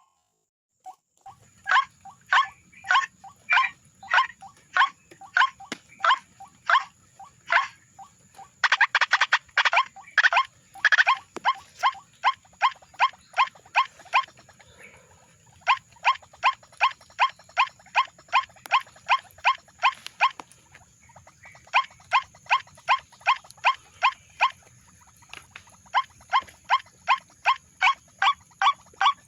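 White-breasted waterhen (ruak-ruak) calling: loud, harsh notes repeated a few times a second in long series with short breaks, denser and overlapping about nine to eleven seconds in. A steady high whine runs behind the calls.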